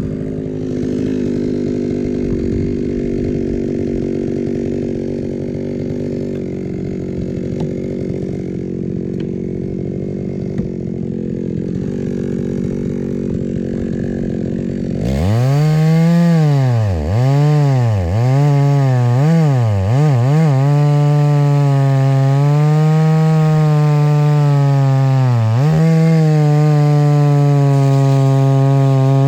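Chainsaw running hard while cutting firewood logs. About halfway through the engine note turns sharper, and its pitch sags and recovers several times in a row as the chain bites into the wood, then dips once more later.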